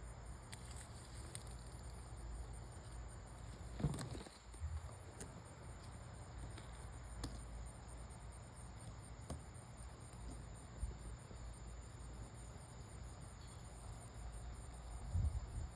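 Faint, steady high-pitched insect chorus, with a brief soft sound about four seconds in.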